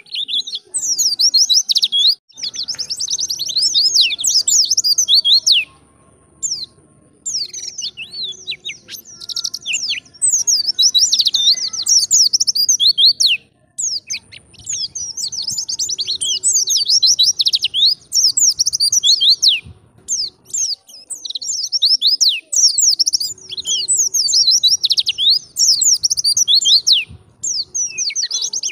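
White-eye (pleci) singing a fast, high, twittering song in phrases of a few seconds each, broken by short pauses.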